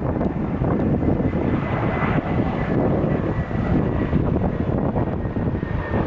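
Airliner jet engines running, with a faint steady high whine over a low rumble, partly buried under wind buffeting on the microphone.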